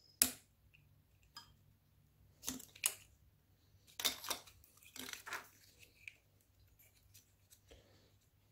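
Hard plastic clicking and scraping of a stuck wiring-harness plug being worked at by hand: one sharp click, then several short clusters of clicks and rattles.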